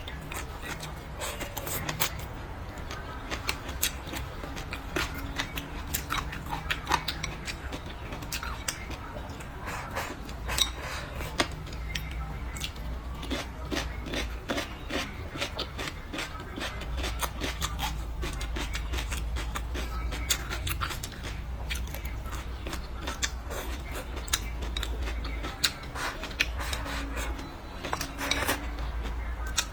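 Close-miked eating of braised pig's trotters: chewing, lip smacking and many small wet clicks and crunches, over a steady low hum.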